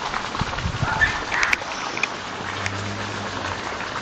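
Steady rush of running pond water, with a few brief bird calls a little after a second in.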